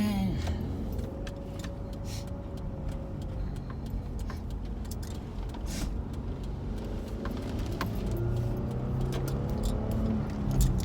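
Car driving, heard from inside the cabin: a steady low road and engine rumble with a few faint clicks.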